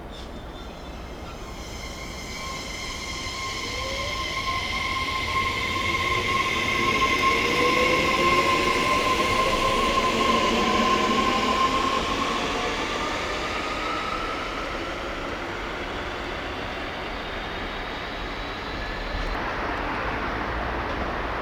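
Electric local train pulling out of a station: its traction motors whine in several pitches that rise as it gathers speed over a steady high tone, loudest about eight seconds in, then fading to rolling noise as it moves away.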